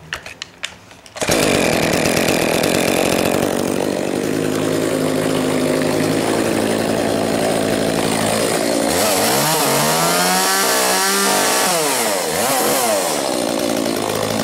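Old Echo two-stroke chainsaw starting about a second in and settling into a steady idle. Near the end it is revved up and back down twice, then it returns to idle.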